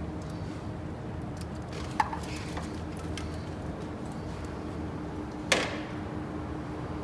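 Two sharp metallic clinks of hand tools or engine parts being handled during an engine teardown, the second louder and ringing briefly, over a steady low hum.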